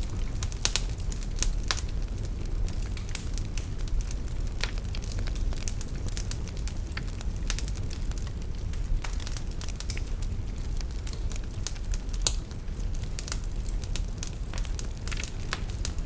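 Wood fire burning in a fireplace: a steady low rumble of flame with frequent irregular crackles and sharp pops, a few louder pops standing out.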